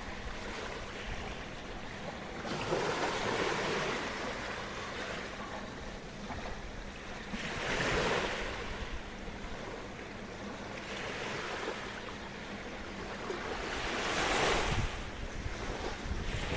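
Small sea waves washing ashore in a sheltered bay. The wash swells three times, every five or six seconds, over a steady hiss of surf.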